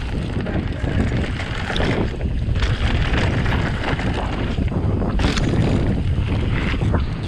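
Wind buffeting the microphone during an e-bike ride, a continuous low rumbling with scattered short clicks and rattles.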